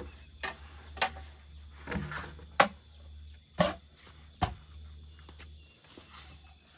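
Crickets chirring steadily, with a handful of sharp, irregularly spaced knocks in the first part.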